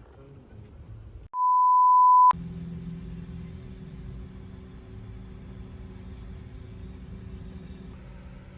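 A loud, steady, high beep lasting about a second, cut in sharply with silence around it, like an edit bleep. After it comes the steady hum of a vehicle's engine and road noise.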